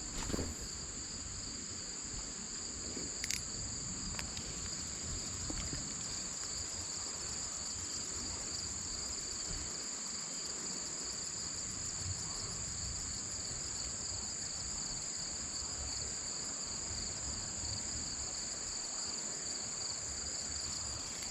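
Steady chorus of insects, a continuous high shrill trill at two pitches, with a low rumble and a few faint clicks beneath.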